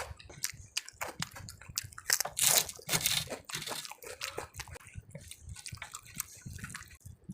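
Close-miked eating: crisp crunching bites and chewing of crunchy food, with a run of loud crunches about two to three seconds in.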